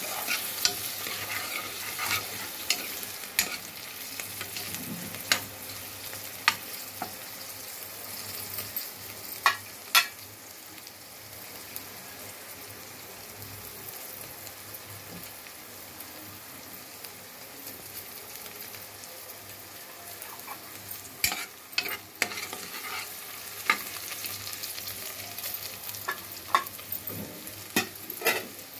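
Sliced onions, green chillies and whole spices sizzling in oil in an aluminium pressure cooker, with sharp clicks and scrapes of a spoon stirring against the metal pot. The clicks thin out in the middle and come back near the end.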